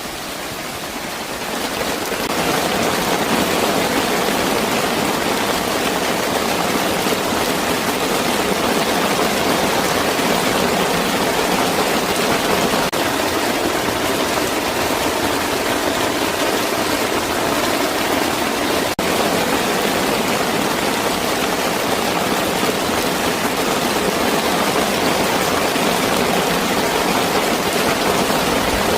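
Heavy rain falling steadily, swelling over the first couple of seconds and then holding even.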